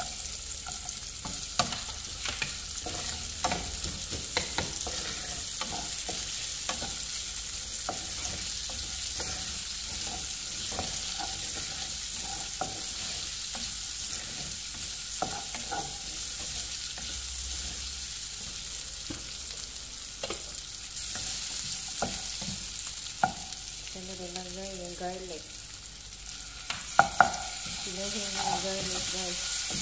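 Sliced onions and garlic sizzling in hot oil in a frying pan, stirred with a wooden spatula that scrapes the pan and knocks against it now and then, sharpest a few times near the end.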